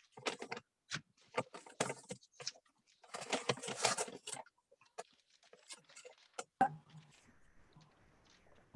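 Gift-wrapping paper rustling and crinkling in short bursts as it is handled, the longest burst about three to four seconds in, followed by a few light clicks and taps.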